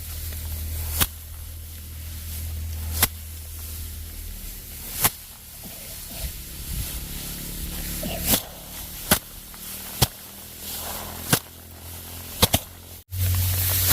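Sharp striking impacts, one about every two seconds at first, then quicker and irregular with some close pairs, over a steady low hum.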